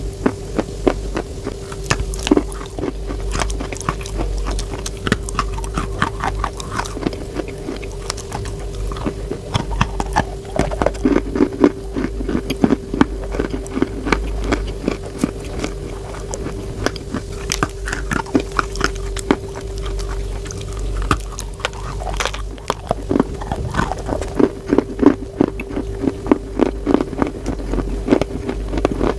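Close-miked chewing and crunching of chalk: dense, irregular crackling crunches one after another, over a steady low hum.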